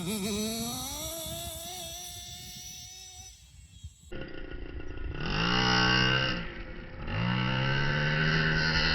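Nitro RC car's small glow engine accelerating away, its pitch rising as it fades out. After a cut it revs up twice, each time climbing quickly and holding high revs for a second or two.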